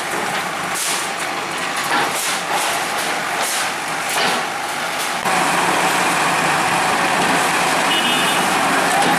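Bulldozer at work demolishing a building: machine noise with repeated knocks for the first five seconds, then a sudden change to a louder, steadier noise. A brief high beep comes near the end.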